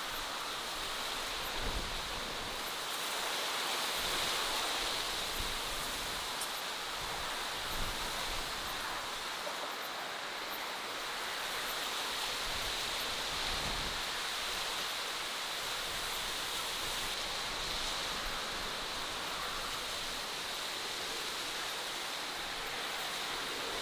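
Steady outdoor nature ambience: an even rushing hiss with no distinct events.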